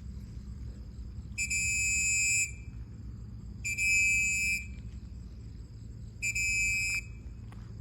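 Three long, steady high-pitched beeps, each about a second long and a couple of seconds apart, over a low rumble and a faint steady high whine.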